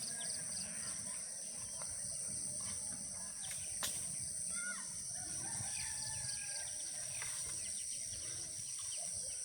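Outdoor ambience: birds chirping over a steady high-pitched drone, with a low rumble underneath. There is a single sharp click about four seconds in.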